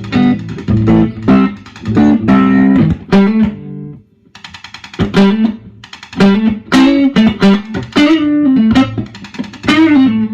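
Electric guitar played loudly through a Fender Deluxe Reverb amp, a run of picked chords and notes with a short pause about four seconds in. In that pause a faint rapid ticking from the amp shows through, the fault noise it is still making after its repair.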